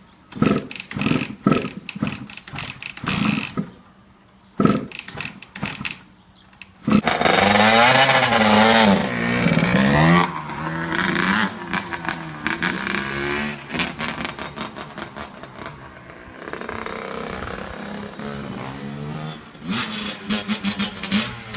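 Dirt bike engine sputtering in short bursts as it tries to start, then catching about seven seconds in and revving up and down before running unevenly at lower revs and revving again near the end. It bogs instead of starting cleanly, which the owner puts down to dirty oil and a clogged air filter.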